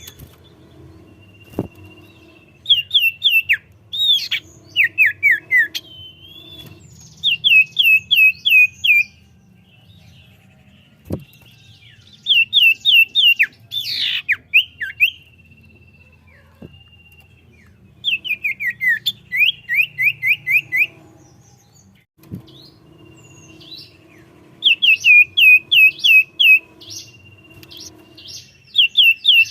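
Common iora singing vigorously: repeated phrases of five to seven quick falling whistled notes, a phrase every few seconds, with a long thin held whistle between some phrases.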